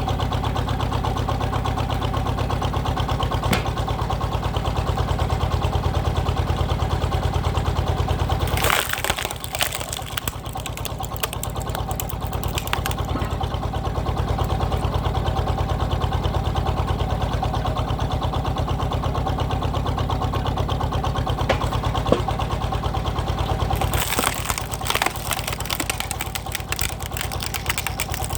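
Power tiller's single-cylinder diesel engine running steadily, driving a hydraulic log splitter. About nine seconds in, and again near the end, its note changes and a couple of seconds of crackling and snapping come in.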